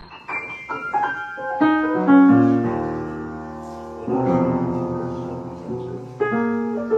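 Piano music: a phrase of struck notes stepping downward into held chords, with fresh phrases starting about four seconds in and again near the end.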